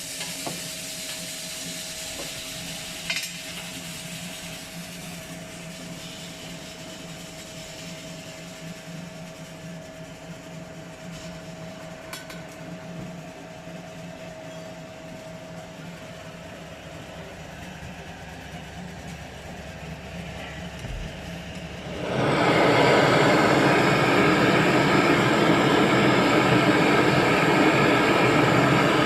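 Radial M2 alloy-wheel straightening machine running, spinning the rim with a steady hum and a faint tone. About two-thirds of the way through it turns suddenly much louder and rougher, as the rim is rolled out with the rollers.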